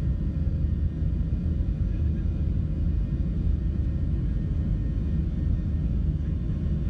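Steady low rumble of an airliner's jet engines and airframe, heard from inside the passenger cabin.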